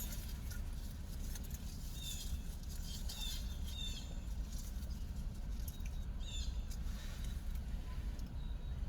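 Small birds chirping now and then, a handful of short, high, falling calls over a steady low rumble.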